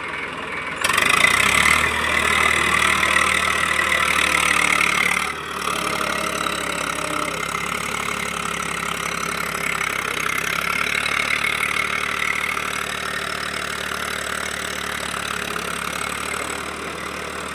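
Eicher 380 tractor's diesel engine running. It comes in sharply louder about a second in, dips briefly after about five seconds, then settles to a steady idle.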